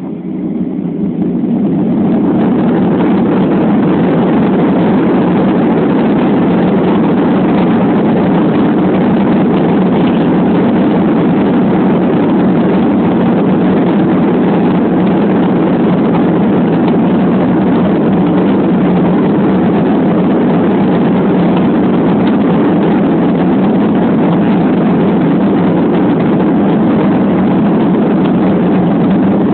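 Passenger airliner's engines during take-off, heard from inside the cabin as a loud, steady roar that builds over the first two seconds and then holds level.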